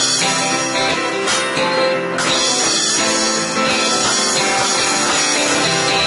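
A band playing an instrumental passage with guitar, loud and continuous.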